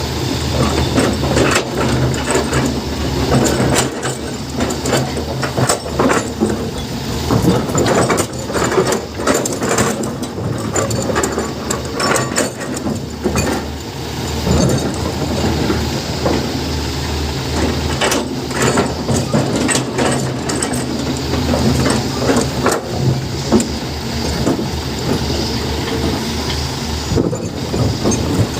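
Heavy diesel machinery engine running steadily under load, with frequent short knocks and clatter.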